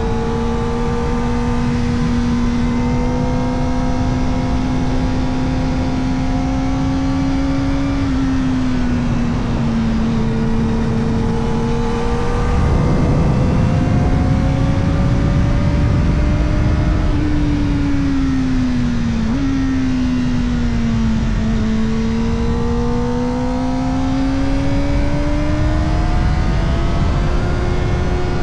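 Kawasaki Ninja ZX-4RR's 399 cc inline-four running through an Arrow Indy Race Evo titanium exhaust with the dB killer fitted, heard from on the bike while riding. The engine note climbs steadily under acceleration, drops abruptly once on a gear change, falls away off the throttle with a quick blip partway down, then climbs again. A rush of noise joins in around the middle.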